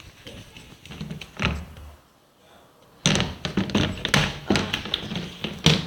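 A thump about one and a half seconds in, then from about three seconds in a rapid run of knocks and rattles, like objects being handled or a door being worked.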